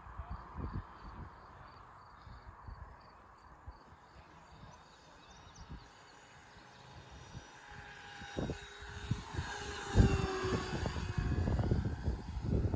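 Electric motor and propeller of an RC foam warbird, faint at first, then growing louder as the plane comes close and falling in pitch as it goes past, about two-thirds through. Irregular low rumbles run throughout, and a single sharp thump comes just before the pass peaks.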